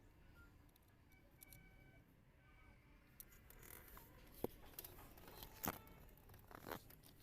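Near silence with a few faint, sharp clicks and knocks, more of them in the second half, like small metal parts or tools being handled.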